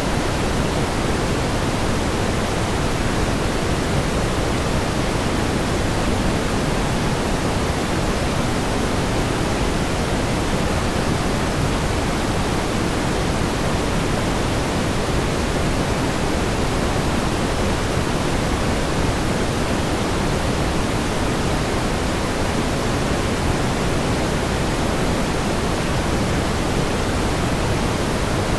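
Steady pink noise: an even, unchanging hiss with more weight in the low end than white noise.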